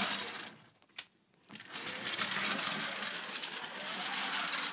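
Motors of battery-powered TOMY toy trains whirring steadily as they run along the track. It is broken near the start by a second of silence with a single sharp click in it.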